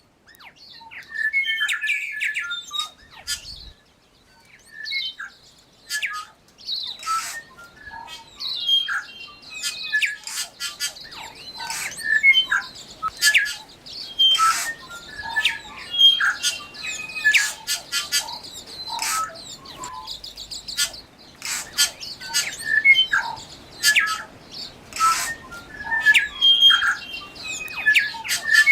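Birds calling: many short chirps and squawks, repeated densely throughout.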